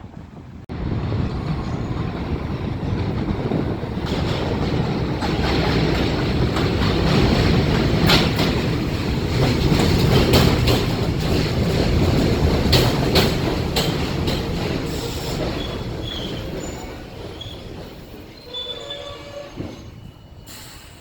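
New York City subway train on the elevated BMT Jamaica Line running past the platform, with rapid clicking of wheels over rail joints. The noise builds to its loudest about halfway through, then fades, with a few brief wheel squeals near the end.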